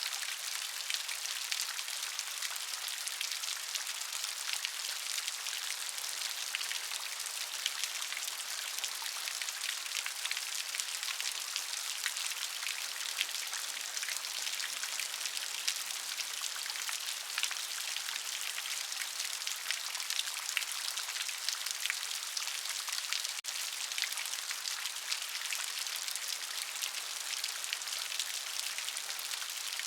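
Steady rain: a dense, even patter of raindrops, a high hiss full of tiny ticks, with no change in strength.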